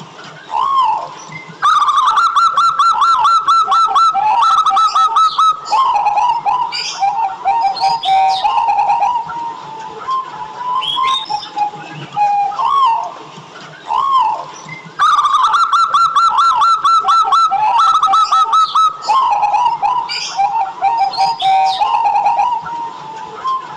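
Zebra dove (perkutut) calling: rapid rolling strings of coos near 1 kHz, broken by separate lower coo phrases. Thin high chirps from other small birds sound behind it. The whole sequence repeats about halfway through, as a looped recording would.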